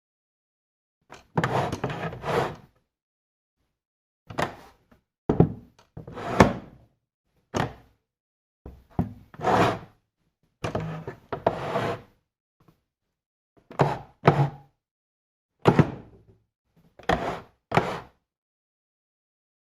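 Electric drill run in a series of short bursts, each under a second, with silent gaps between them.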